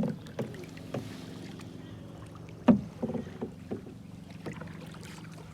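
Knocks and thumps of paddles and people against a canoe as it is turned and got ready to paddle off, a loud knock at the start and another about three seconds in, over a steady low hum.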